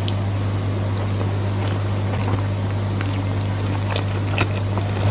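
A steady low hum runs throughout, with faint scattered clicks and smacks of eating toward the end.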